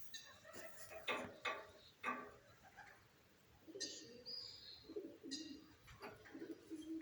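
Doves cooing in low, repeated phrases from about halfway through, mixed with short, sharp chirps of small birds earlier on.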